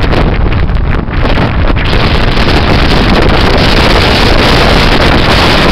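Gale-force wind blasting across the camera's microphone, a loud, constant rumbling roar of wind buffeting.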